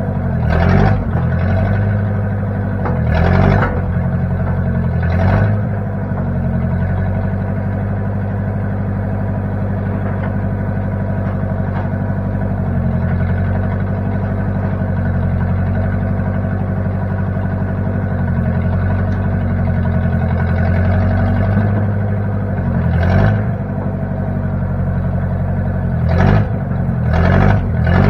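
Case 540 backhoe's engine running steadily, its pitch dipping briefly with a louder swell a few times near the start and again near the end, as if loaded or throttled.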